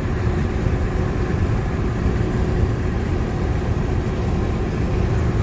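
Steady road noise inside a car cabin at highway speed: a low rumble of engine and tyres with a faint steady hum.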